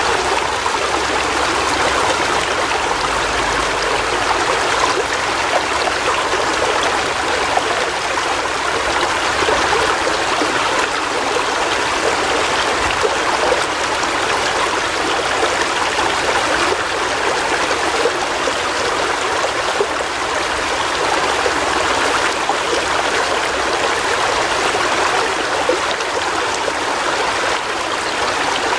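River water flowing, a steady rushing with small splashes and gurgles.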